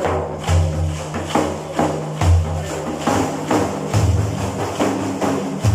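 Frame drums with jingles beaten in a steady rhythm of about two strokes a second, accompanying a mawlid praise chant, with deep drum strokes over a sustained low tone.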